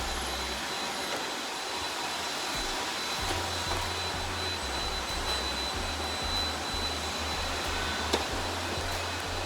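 Robot vacuum running with a steady whirring hiss and a faint high whine, with a single sharp click about eight seconds in.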